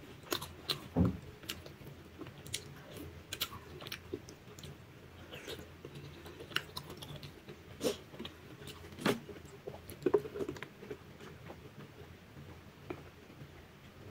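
A person chewing food close to the microphone: irregular wet mouth clicks and ticks of chewing and biting.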